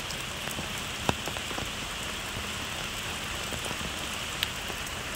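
Steady rain falling on pond water, an even hiss dotted with small drop ticks, with two sharper ticks, one about a second in and one near the end.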